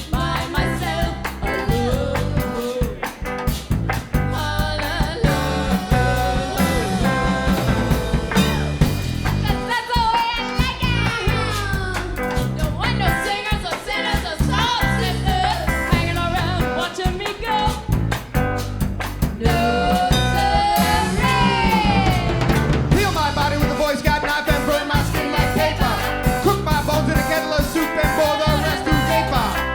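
Live band playing an up-tempo song with drum kit and bass; a lead line slides and bends in pitch twice, in the middle and again later.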